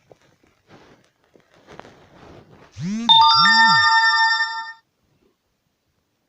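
A loud electronic chime: two quick swooping tones, then a chord of steady ringing tones held for about a second and a half before it cuts off suddenly. Faint rustling comes before it.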